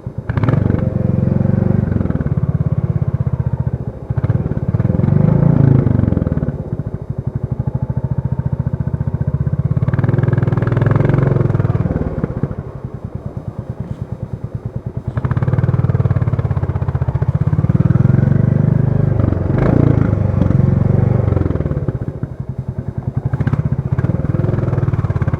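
Royal Enfield Classic 350's single-cylinder engine running under load, with its separate firing pulses audible. It pulls hard in several surges, easing off to a lower, quieter beat between them as the throttle is opened and closed.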